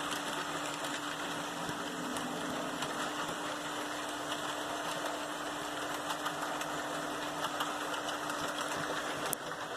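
HO scale model train running on its track: a steady electric motor hum over the rolling hiss of wheels on rail, with faint scattered clicks. The hum fades about nine seconds in.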